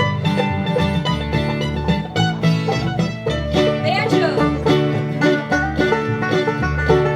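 Bluegrass band playing an instrumental break led by a picked banjo, with guitar and a steady bass line underneath. A brief sliding note comes about four seconds in.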